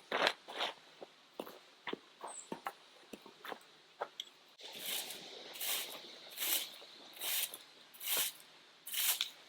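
Camping gear being handled and packed up during camp teardown: scattered clicks and rustles, then from about halfway a regular run of scratchy swishes, a little more than one a second.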